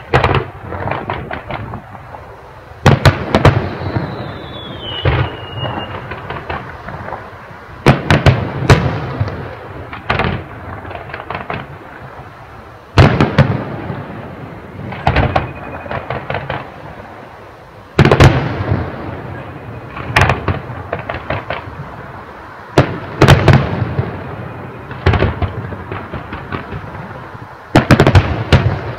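Fireworks display: aerial shells bursting in loud bangs every few seconds, often in quick pairs, with crackling and rumble between them. A whistle falls in pitch a few seconds in.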